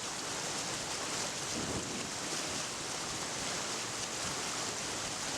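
Steady, even rushing noise of an outdoor nature soundscape, with no distinct events.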